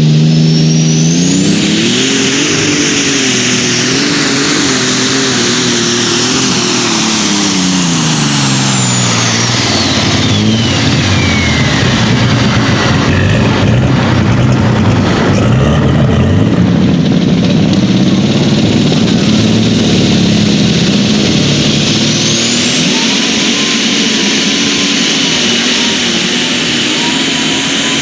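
Pulling tractor's engine run hard under load, with a high turbo whistle that climbs and holds. The whistle and engine pitch slide down about ten seconds in, the engine runs rough and low for a while, and near the end the whistle climbs again as the revs come back up.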